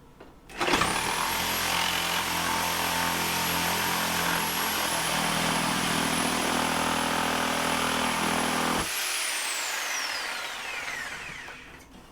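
Electric power saw cutting into wall framing: the motor starts up about a second in and runs steadily under load for about eight seconds. It is then switched off, and its high whine falls in pitch as it winds down over a few seconds.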